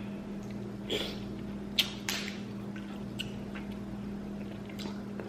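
Close-up eating sounds from a saucy seafood boil: wet chewing and a handful of short, sharp mouth smacks, the loudest about two seconds in, over a steady low hum.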